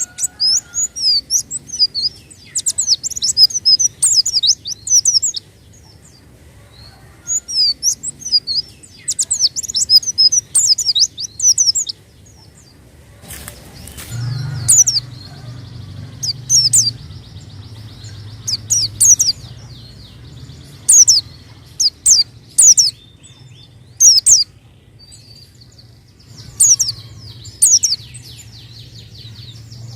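White-eye (pleci) singing in bursts of rapid, high chirping notes, each burst a few seconds long with short pauses between. From about halfway through, a low steady hum runs underneath the song.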